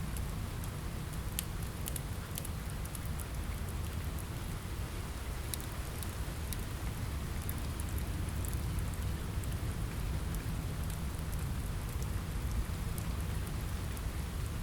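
Steady rain on a window, with a deep low rumble underneath and scattered small sharp crackles from a fireplace.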